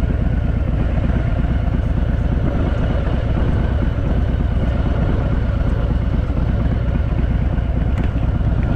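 Harley-Davidson Fat Boy's air-cooled V-twin engine running steadily as the motorcycle is ridden.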